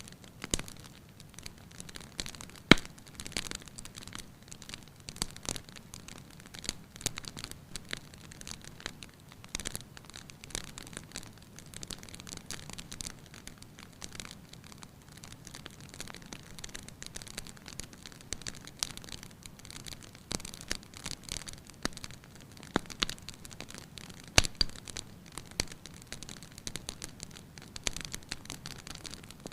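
Wood fire crackling in a fireplace: irregular pops and snaps over a soft hiss, with two sharper cracks, one about three seconds in and one near the end.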